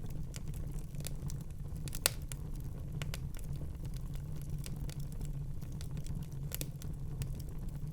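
Wood fire burning in a fireplace: a steady low rumble of flames with irregular crackles and pops, one sharp pop about two seconds in and another louder one late on.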